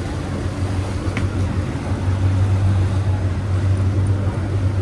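Boat engine running with a low, steady drone that gets louder about two seconds in, as a motorboat passes on the canal. A brief click sounds just after a second in.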